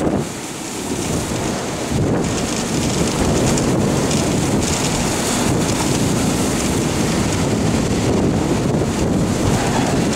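Typhoon wind buffeting the microphone over the steady roar of storm surf and spray against a breakwater. The noise dips briefly near the start, then holds loud.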